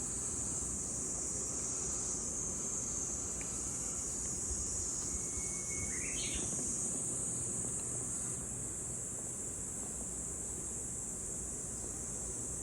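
Steady, high-pitched insect chorus droning without a break, with one short rising chirp about halfway through.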